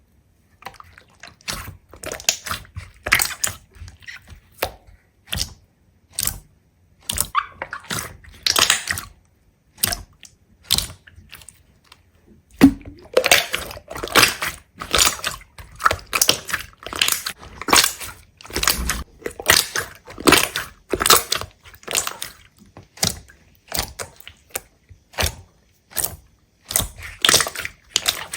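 Irregular series of crisp crackles and clicks, several a second, coming in clusters with short pauses between; the sharpest snap falls about halfway through.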